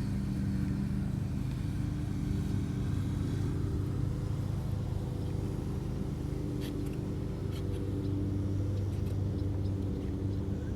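A steady low mechanical hum with a few faint clicks partway through.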